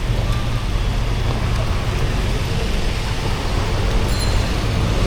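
Steady rain hiss on a street, with the low rumble of road traffic underneath.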